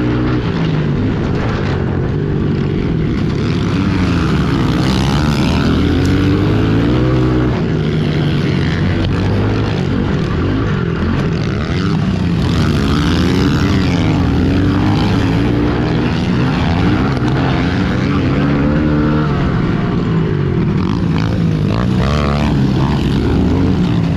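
Pit bike engines racing, several at once, revving up and down over and over as the bikes run through the gears around the track.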